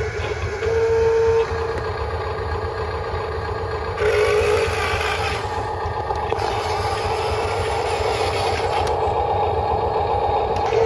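Huina 1573 RC dump truck's electric motors and gears whirring, the sound stepping up and down as it is driven. A thin steady whine cuts in briefly about a second in and again around four seconds.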